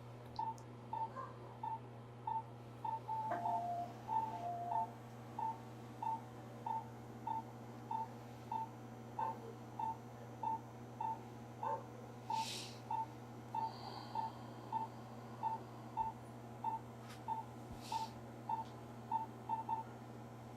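Electronic monitor beeping a short, steady tone evenly about one and a half times a second, like a patient monitor's pulse beep, over a steady low electrical hum.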